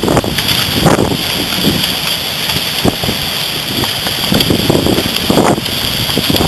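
Strong thunderstorm wind buffeting the microphone in irregular gusts, over a steady hiss of hail and rain pelting down.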